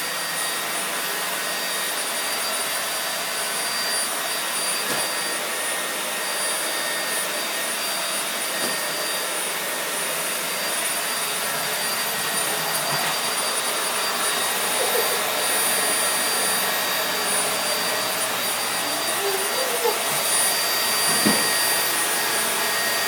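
Vacuum cleaner running steadily, its motor noise carrying a thin high whine.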